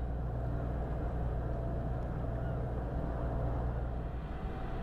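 A steady low engine rumble with a faint steady hum above it.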